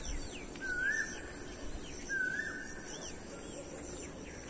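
Outdoor birdsong: a short whistled bird call, rising then dipping, repeated about every second and a half, with quick high chirps from other birds among it over a steady high hiss.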